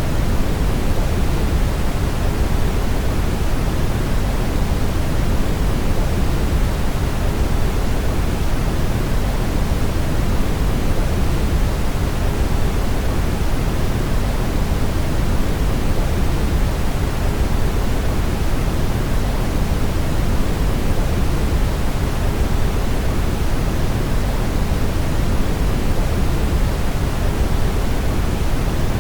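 Steady, unchanging brown noise: an even hiss-like rumble, heaviest in the bass and thinning toward the treble, with no drops or other events.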